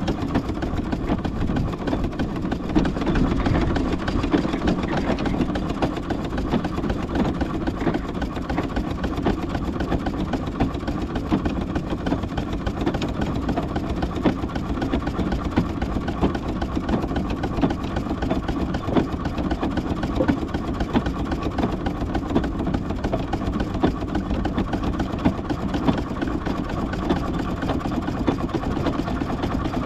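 Large steam engine running as it is driven, a steady mechanical clatter with frequent irregular knocks.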